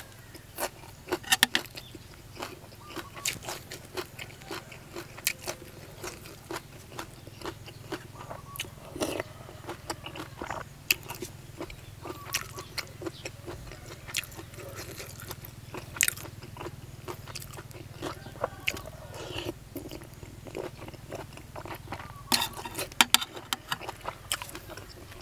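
Close-miked eating: a person biting and chewing food, with many irregular sharp crunches over a low steady rumble.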